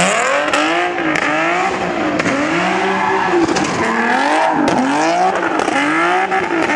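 A car engine revving hard, its pitch rising and falling over and over about once a second, with tire squeal, as in a car doing donuts or a burnout.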